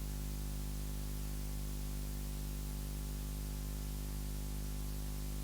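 Steady low electrical hum with a layer of hiss, unchanging: background noise of the sound system or recording with no one speaking.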